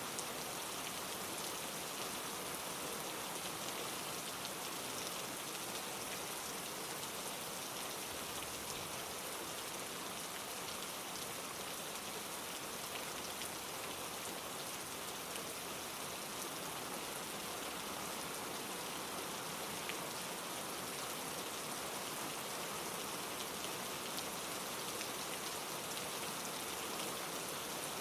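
Steady rain pattering on leaves, with scattered individual drop ticks over an even hiss.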